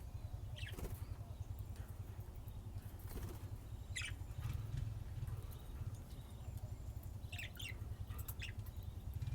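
Pet budgerigars chirping in short, scattered calls, a few single chirps and then a quick cluster near the end, over a steady low hum.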